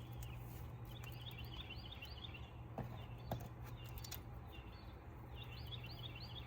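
A bird singing faintly in the background: two runs of quick, repeated high chirps. Under it runs a steady low hum, with two light clicks near the middle.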